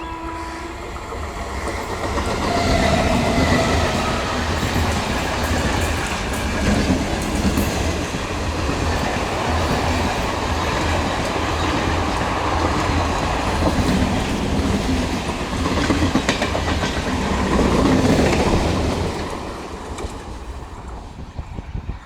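A passenger train passing close by, its wheels clattering over the rail joints, then fading away near the end.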